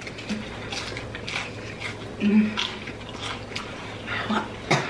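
Close-miked crunching of crispy fried chicken being bitten and chewed: a run of short, sharp crunches, about two a second. A brief low hum of the eater comes about halfway through.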